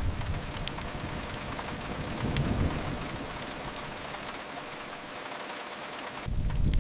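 Steady rain hiss with a few faint crackles from a wood fire. A low rumble under it in the first half fades away about halfway through.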